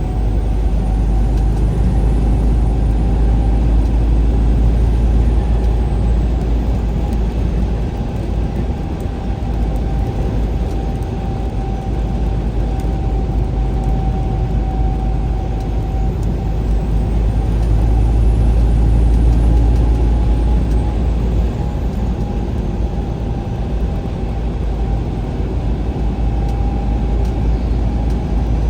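A vehicle driving along a highway at speed: a steady low rumble of road and engine noise with a faint, even whine, swelling slightly a couple of times.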